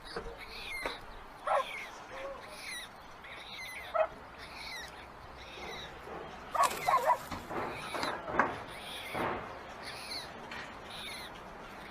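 Birds at a white stork nest calling in short, repeated notes about twice a second, with a louder cluster of calls about six and a half seconds in.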